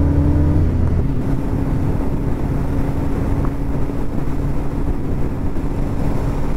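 Kawasaki ZX-10R's 998 cc inline-four engine running at a steady cruise, holding an even pitch, heard from a helmet chin-mounted microphone; the bike's catalytic converter has been removed.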